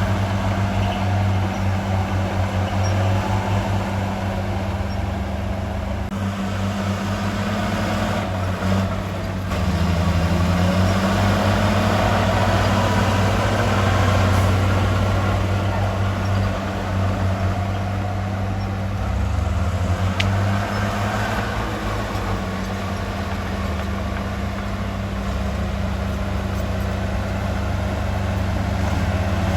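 Heavy earthmoving machine's diesel engine running steadily, with a brief shift in pitch about ten seconds in.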